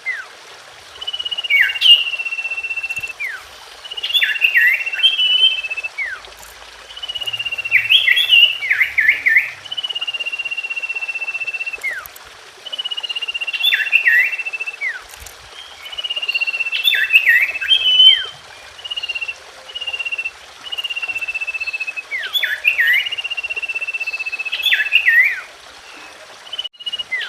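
Common iora (cipoh) singing: a long, level whistle held for about two seconds, then a quick burst of short chirping notes. The phrase repeats about every four seconds.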